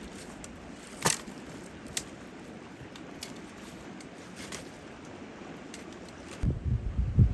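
A few sharp clicks and snaps over a faint outdoor hiss, the loudest about a second in. Near the end, a sudden loud low rumble of wind buffeting the microphone starts.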